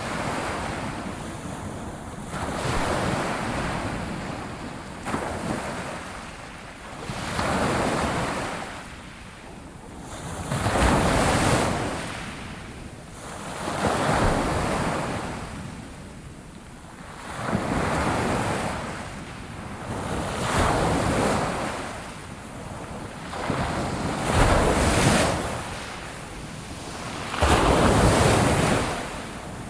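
Ocean waves breaking on a shore, each wave rising into a rushing surge and falling away again, about one every three seconds.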